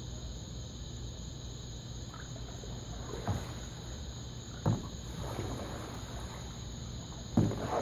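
Kayak paddle strokes splashing in pool water: three short splashes, the last and loudest near the end, over a steady low hum.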